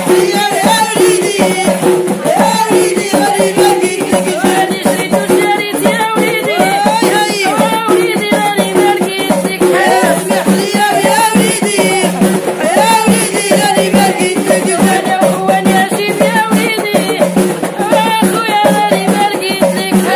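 Moroccan folk song: a voice singing melodic lines over fast, dense rattle and drum percussion, with a steady low held note beneath.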